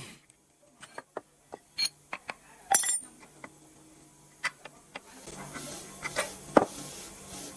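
Metal parts clinking and tapping in separate small knocks, one ringing metal clink near three seconds in. From about five seconds a steady motor hum with a hiss starts up.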